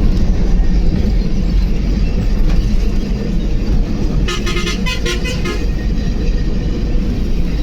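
Steady low rumble of a truck's engine and road noise on the move, with a vehicle horn giving several short toots about four to five seconds in.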